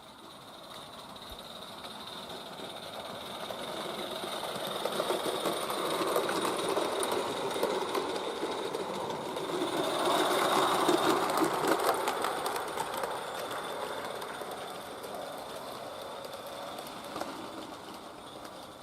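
Accucraft Caradoc live-steam garden-railway locomotive running along the track, growing louder to its loudest about ten seconds in, then fading as it moves away.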